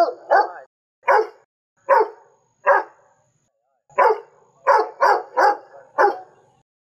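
A small white curly-coated dog barking repeatedly. It barks singly about once a second, then after a short pause gives a quicker run of five barks.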